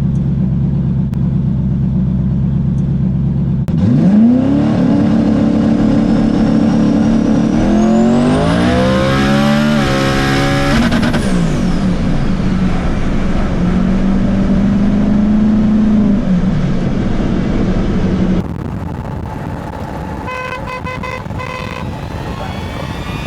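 Pickup truck engines: a deep steady idle, then an engine revving up, its pitch climbing steeply for a few seconds before dropping off about eleven seconds in, then running more steadily. The sound turns quieter near the end, where a few steady held tones sound.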